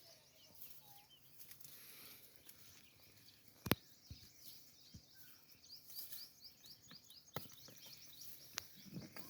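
Small birds chirping in quick, short, falling calls, faint against outdoor background noise, with a few sharp clicks or knocks; the loudest is a little under four seconds in.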